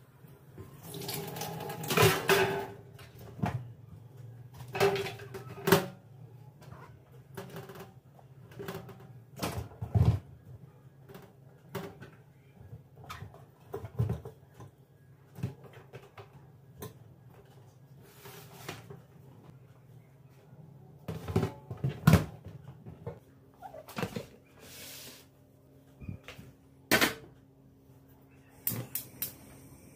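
Kitchen work: irregular knocks and clatters of dishes and cupboard or drawer doors being handled, over a faint low steady hum, with a steady tone joining in about two-thirds of the way through.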